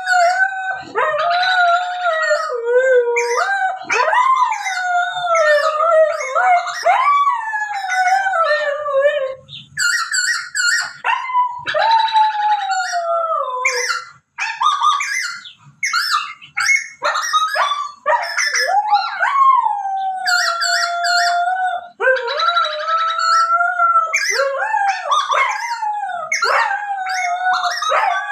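A dog whining and howling in long, wavering, high-pitched wails, one after another with short breaks, fretting over a bird it takes to be trapped.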